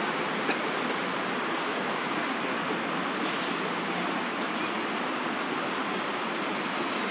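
Steady wash of distant city traffic noise, with two faint short high chirps about one and two seconds in.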